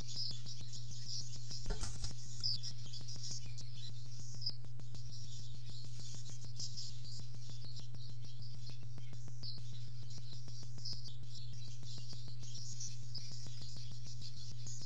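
Faint, high bird chirping scattered throughout over a steady low electrical hum, with a single brief knock about two seconds in.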